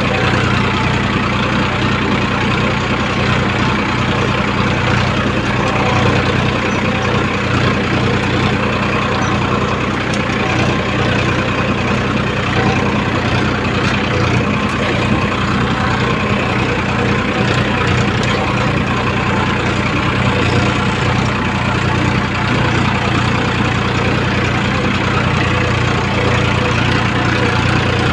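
Farmtrac tractor's diesel engine running steadily while ploughing a field.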